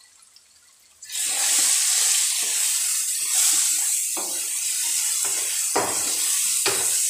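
Onion and tomato masala with ground spices frying in oil in a karahi: steady sizzling that starts about a second in, stirred with a wooden spatula that scrapes and knocks against the pan a few times, the masala being fried (bhuna) after the spices go in.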